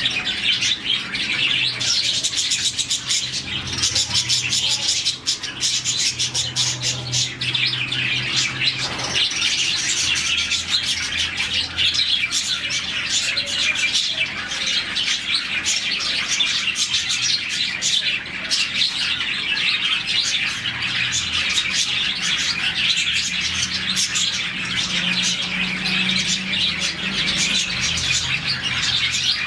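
A flock of about forty budgerigars in an aviary chirping and twittering all at once, a dense continuous chatter of overlapping high chirps. A faint low steady hum runs beneath it.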